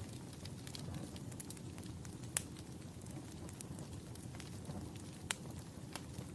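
Wood fire crackling in a fireplace: frequent small ticks and snaps, with two sharper pops, one a couple of seconds in and another about five seconds in, over a steady low rumble.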